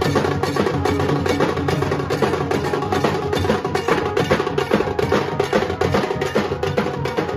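Nasik dhol drumming: dhol and tasha drums beating a loud, fast, steady rhythm.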